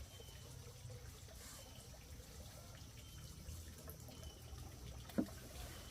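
Faint, steady trickle of running water, with one short sharp clack about five seconds in.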